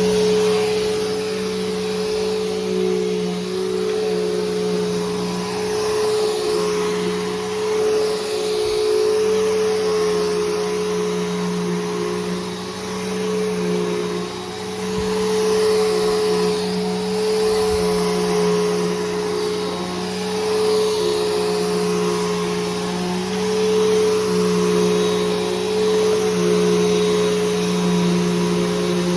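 Bissell Powerforce Helix Turbo upright vacuum cleaner running, fitted with a new brushroll and belt: a steady motor hum and whine over rushing airflow, rising and falling slightly in loudness as it is worked over the floor.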